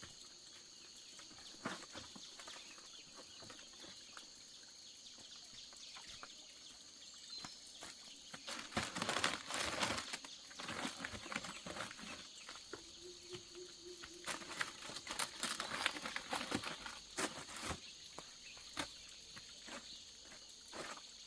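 Outdoor ambience: a steady high-pitched insect drone runs throughout, with scattered clicks and taps. Two louder stretches of rustling come about eight and fifteen seconds in.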